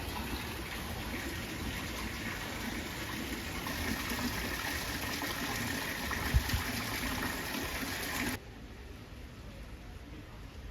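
Steady rush of splashing water, running water at a pool, with one brief low thump about six seconds in. It cuts off abruptly about eight seconds in, leaving only a faint background hiss.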